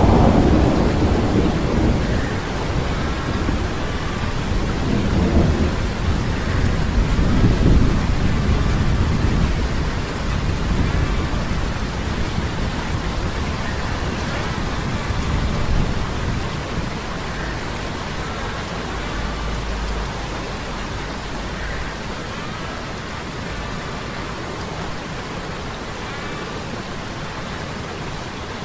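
Sea storm sound effect: steady rain with rolling thunder, the rumbles heaviest in the first several seconds, then easing into steady rainfall.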